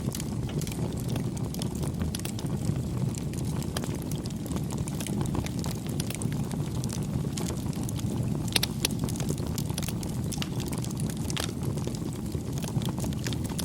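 Campfire burning: a steady low rush of flames with frequent sharp crackles and pops, a cluster of louder pops about eight and a half seconds in.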